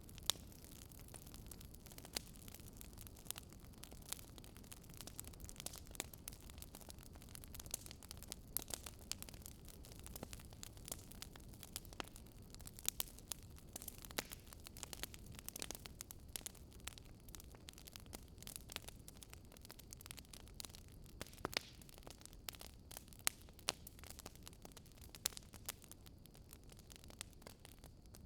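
Wood fire crackling in a fireplace: a faint steady low rumble of flames with many irregular sharp pops and snaps throughout.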